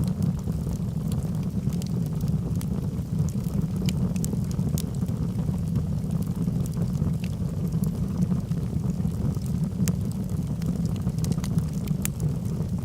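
Logs burning in a fireplace: a steady low rumble of flames with scattered sharp crackles and pops.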